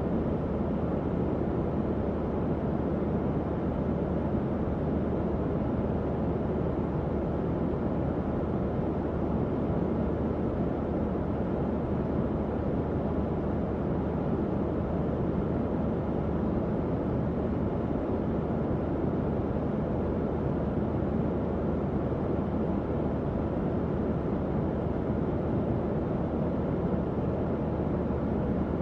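Tower fan running steadily: an even, low airy rush with a faint hum underneath and no changes.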